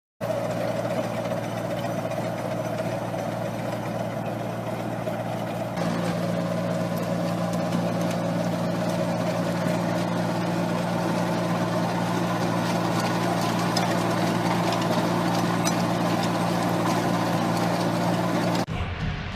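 Heavy farm machine's engine running steadily, with a slight step up in level about six seconds in; the engine sound cuts off shortly before the end.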